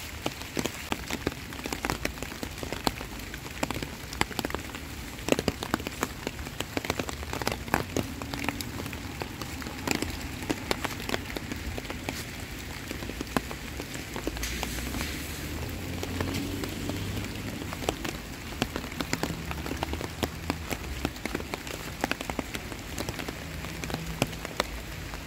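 Heavy rain falling, a steady patter dense with sharp drops hitting close by.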